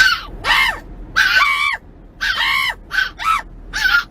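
A bird squawking loudly over and over: about seven short, harsh calls in quick succession, each rising and falling in pitch.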